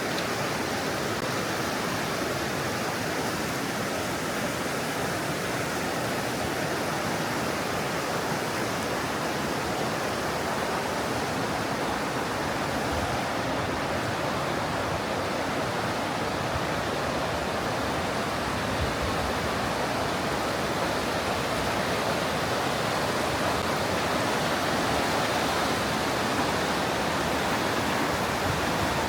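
Mountain river rushing through a narrow limestone gorge: a steady, loud roar of white water.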